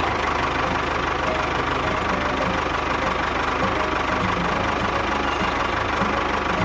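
A small motor running steadily, with a fast, even rattle.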